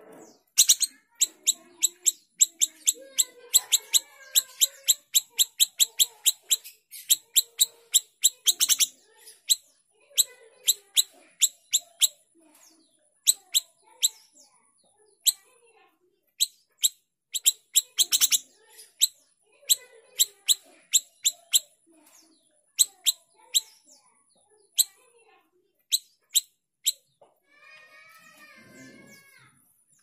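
Siri-siri kecil calling in long runs of sharp, rapid-fire chips, several a second, broken by short pauses, with softer twittering beneath.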